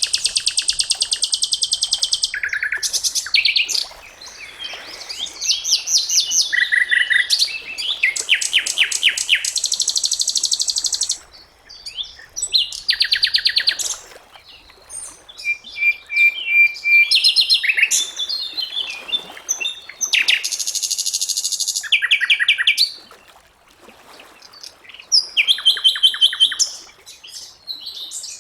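Sikatan londo flycatcher singing: a run of high, rapid trills and repeated whistled notes in phrases of one to three seconds, with short pauses between them.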